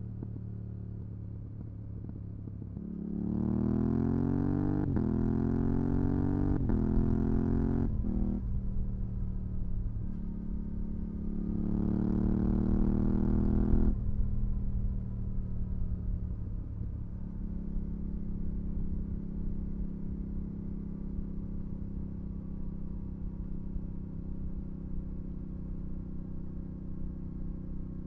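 Yamaha R7's 689 cc parallel-twin engine running through a full MIVV GP Pro exhaust with the dB-killer fitted. About three seconds in it pulls hard, its pitch climbing and dropping back several times in quick succession. It pulls again briefly near the middle, then runs at a steady cruise.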